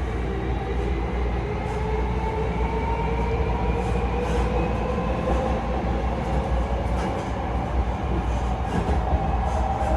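Hankyu electric train running between stations, its motor whine rising slowly in pitch as it gathers speed over a steady rumble, with a few faint clicks.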